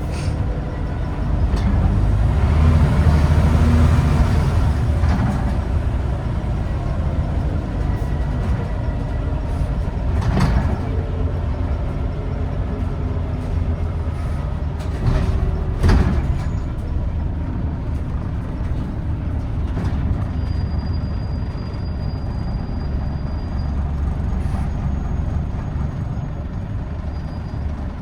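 Interior ride noise of a Scania N94UD Omnidekka double-decker bus: its diesel engine and road rumble heard from inside the cabin, louder for a few seconds near the start. Two sharp knocks or rattles come about ten and sixteen seconds in.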